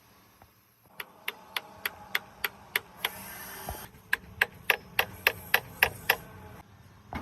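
Rapid, evenly spaced metal-on-metal taps, like a hammer striking metal, about three a second. Two runs of eight or so are split by about a second of steady hissing, and one more tap comes near the end.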